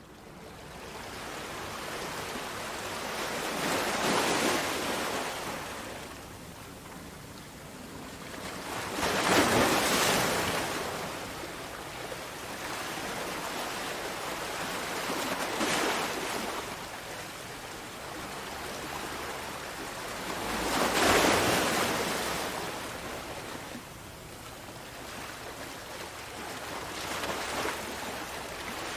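Sea waves breaking on a shore, fading in at the start. Five surges of surf come about every five to six seconds, with a steady wash of hiss between them.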